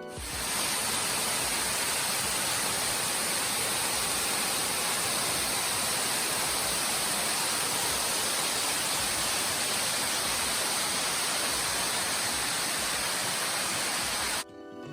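Loud, steady rushing noise with a strong hiss, starting abruptly and cutting off suddenly near the end.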